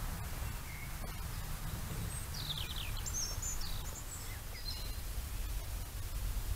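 A small songbird chirping and twittering in a quick run of short high notes, some sliding downward, about two to four seconds in, over a steady low rumble of background noise.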